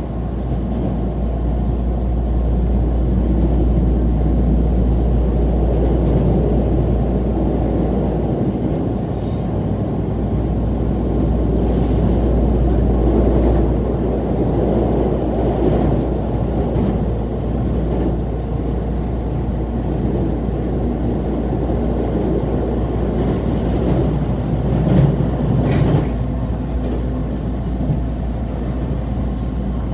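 Passenger train running, heard from inside the car: a steady low rumble from the wheels and running gear, with a few brief sharp clicks along the way.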